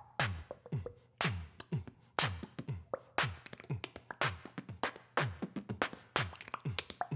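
Beatboxing: a steady groove of deep kick-drum sounds that drop in pitch, with quick clicks and hi-hat hisses filling the gaps between them.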